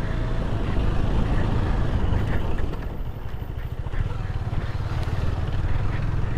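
KTM Duke 250's single-cylinder engine running at low speed on a rough, muddy track, with a steady rapid low pulse and wind noise on the microphone; it eases off briefly in the middle, then picks up again.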